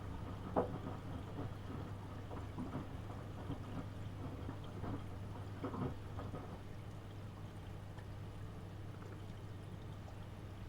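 AEG Öko-Lavamat 72520 washing machine running, with water sloshing in the drum: irregular splashes for about the first six seconds, then a steadier wash with a low hum underneath.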